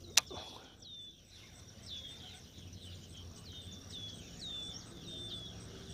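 A bird calling over and over in short downward-slurred chirps, two or three a second, over faint, evenly spaced insect ticking. A single sharp click just after the start is the loudest sound.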